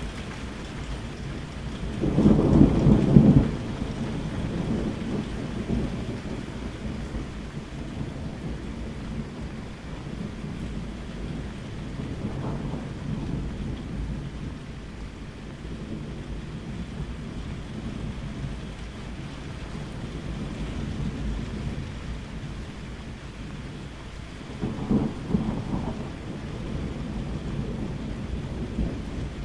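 Steady rain with thunder: a loud low rumble of thunder about two seconds in, lasting over a second, and a second, weaker rumble near the end, over the continuous hiss of rain.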